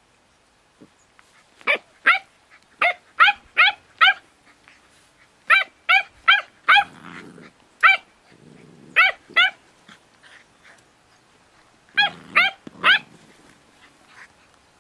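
Pit bull puppy barking in short, high-pitched yaps, about sixteen in four quick bursts, with low play-growling between them during tug-of-war play.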